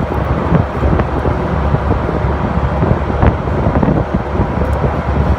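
Wind buffeting the microphone over steady road and engine noise, heard while riding in the open back of a moving truck.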